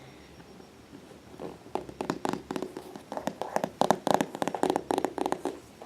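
Fingers tapping rapidly on a soft-sided cat carrier, many quick taps a second, starting about a second and a half in and loudest around the middle.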